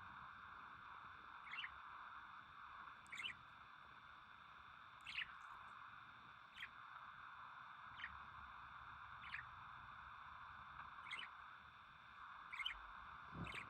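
Faint short, high bird chirps repeating about every one and a half seconds, nine in all, over a steady hiss.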